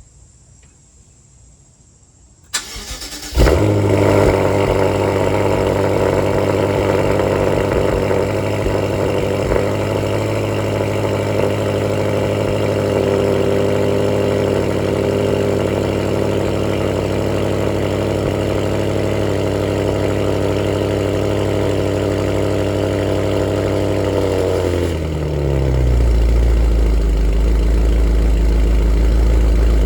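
BMW X6 M twin-turbo V8 with an Akrapovic full titanium exhaust cold-starting. The starter cranks briefly a few seconds in, the engine catches with a loud flare, then holds a steady high cold-start idle. Near the end the idle drops in pitch and settles into a deeper, lower drone.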